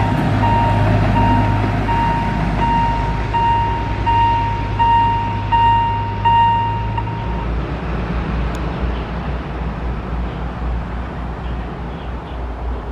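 Electronic warning bell of a railway level crossing beeping about twice a second over a low hum. Both stop about seven seconds in as the warning ends, leaving a low steady rumble.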